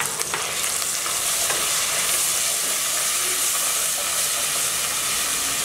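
Oil sizzling steadily in a metal pan as browned onion and freshly added ginger, onion and garlic pastes fry while being stirred with a wooden spatula, with a few light knocks just after the start.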